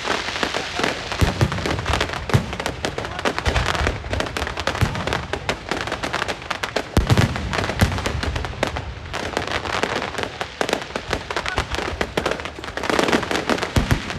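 Fireworks and firecrackers going off in a dense, continuous crackle of sharp cracks, with a heavier bang every few seconds.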